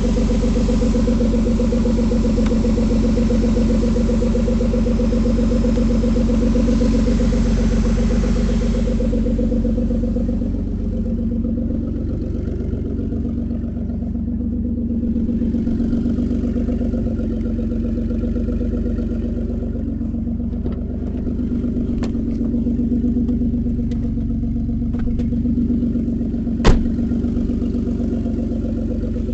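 2003 Ford Escape engine idling steadily and smoothly, no longer shaking, after work on its cylinder 4 misfire. A hiss fades out about a third of the way through, and a single sharp click comes near the end.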